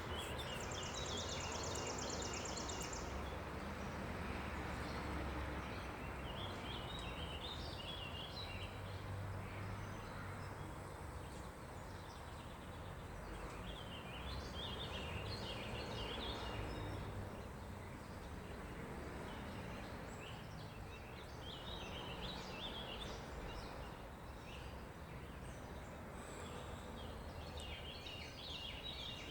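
Low rumble of heavy trucks at a distance, slowly fading, with birds chirping repeatedly over it and a brief fast high trill near the start.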